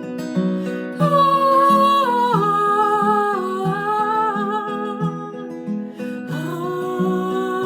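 Acoustic guitar strumming a steady repeating pattern while a voice sings a wordless melody in long held notes that step downward, starting a fresh long note near the end.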